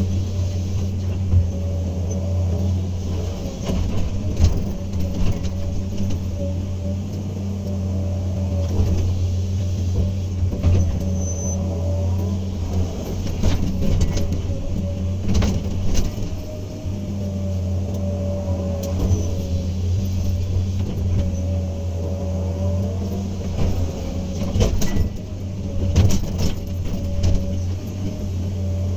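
Hydraulic excavator's diesel engine running steadily, with scattered knocks and clanks from the machine working.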